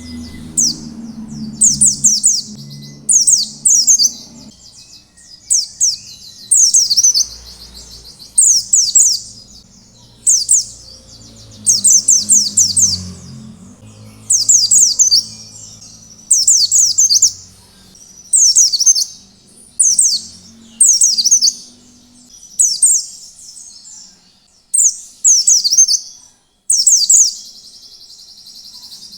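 White-eye (pleci) singing in the 'ngalas' style: short, high, rapid twittering phrases repeated about every second and a half, with brief gaps between them.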